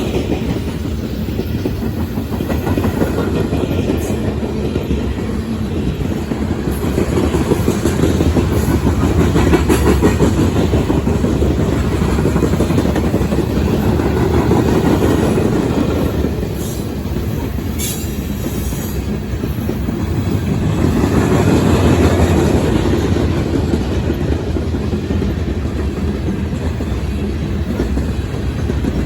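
Freight train cars rolling past, a steady low rumble of wheels with rapid clickety-clack over the rail joints, swelling and easing as the cars go by.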